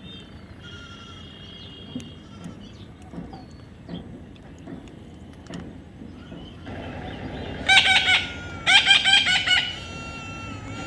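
Parrot calling: a few faint whistles near the start, then loud, harsh squawks repeated in quick bursts in two bouts during the last three seconds.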